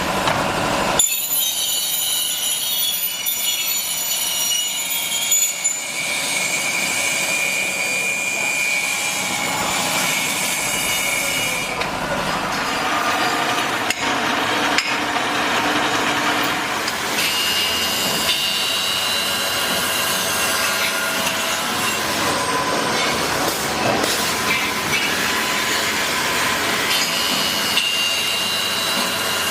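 CNC machine cutting metal, a continuous noisy run with several high-pitched squealing tones that change every few seconds.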